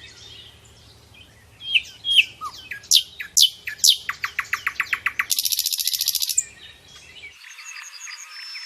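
Wild songbirds calling: sharp, falling whistled notes, then a rapid even trill and a loud buzzy trill. Near the end the sound cuts to a dense chorus of chirping frogs.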